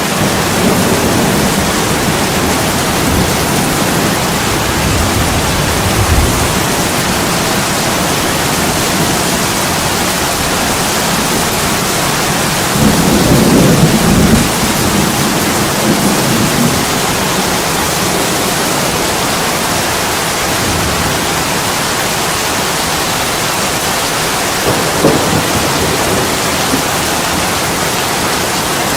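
Steady heavy rain, with several low rolls of thunder; the loudest comes about halfway through.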